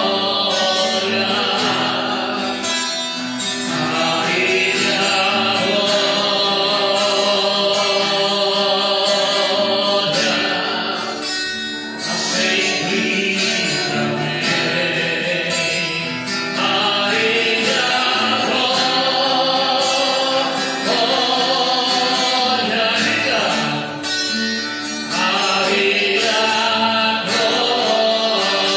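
Portuguese-language gospel worship song: sung vocals with a choir-like sound over guitar accompaniment, continuous throughout.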